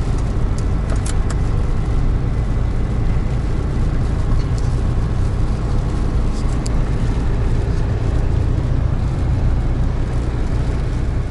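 Truck driving, heard from inside the cab: a steady low engine and road drone, with a few faint clicks.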